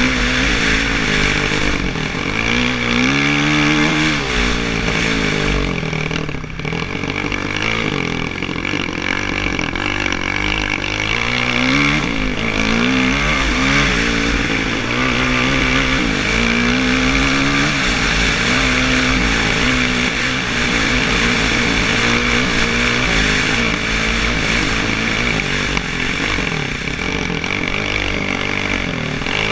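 Kawasaki KX450F dirt bike's single-cylinder four-stroke engine being ridden hard. The engine note climbs and drops over and over as the throttle is opened and closed and the rider shifts gears.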